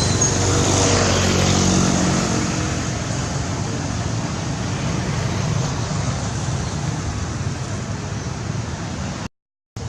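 Steady outdoor traffic noise, with an engine-like pitched hum in the first couple of seconds; the sound drops out for about half a second near the end.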